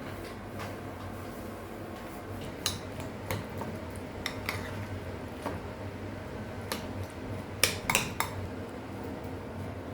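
Kitchen clatter: dishes and utensils clinking and knocking at irregular intervals, over a steady low hum, with a louder cluster of knocks near the end.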